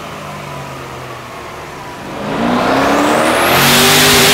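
Twin-turbocharged V8 of a C7 Corvette on a hub dyno, running at low speed, then about two seconds in opened up hard as a dyno pull begins: the engine note climbs quickly and the sound swells into a loud, dense rush that holds near the end.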